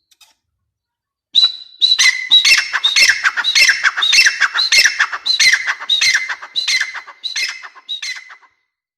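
Grey francolin (teetar) calling: a loud run of about a dozen repeated high phrases, roughly two a second, starting a little over a second in and fading away near the end.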